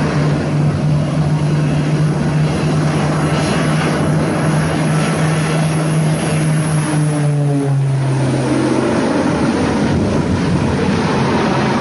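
Propeller aircraft engine droning loudly and steadily over a rushing noise; about seven seconds in its pitch drops and then holds at the lower note.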